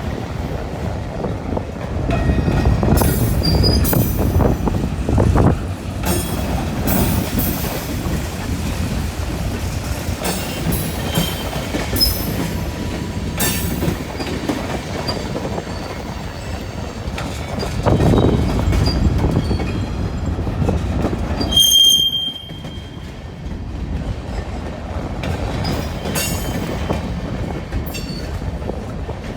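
Freight cars of a BNSF train rolling past: a steady rumble of steel wheels on rail with many clicks and clanks, and short high squeals from the wheels. The rumble dips briefly about three-quarters of the way through, just after the strongest squeal.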